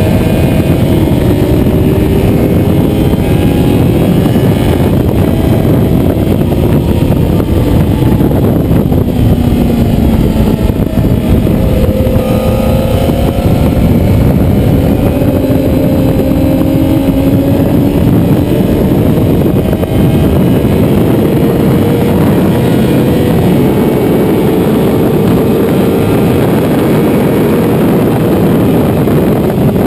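Motorcycle engine running hard on a race track, its pitch climbing and dropping again and again as it accelerates and slows, over a loud steady rush of noise.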